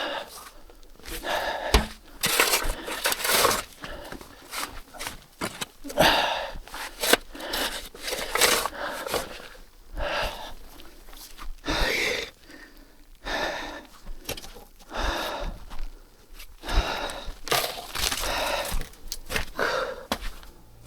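A man breathing hard and panting, mixed with repeated irregular crunching and scraping noises about once or twice a second.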